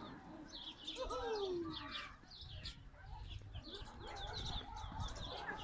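Small birds chirping, many short high notes in quick succession.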